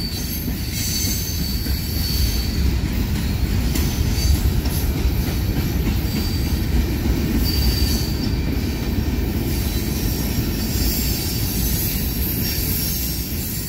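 Freight train's covered hopper cars rolling past: a steady low rumble of steel wheels on rail, with high-pitched wheel squeal coming and going.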